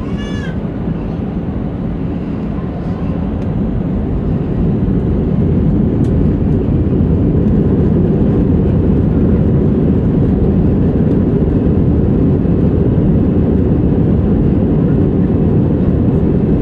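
Airliner engine noise inside the cabin, swelling over the first few seconds into a steady loud rumble as takeoff power builds. A brief high tone sounds right at the start.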